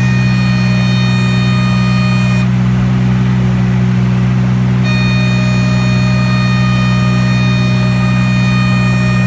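Light aircraft's piston engine and propeller droning steadily at constant power, heard close and unchanging in level, with a low hum and a thin high whine; the whine drops out for about two seconds near the middle.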